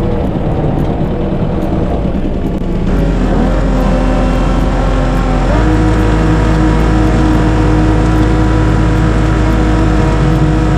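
Tractor engine running under load, speeding up in two steps about three and five and a half seconds in, then holding a steady higher speed.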